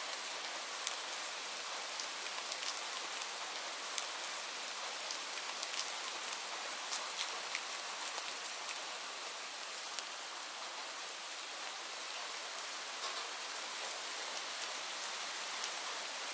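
Steady rain falling on leaves: an even hiss of rainfall with many separate drops pattering and ticking sharply on the foliage.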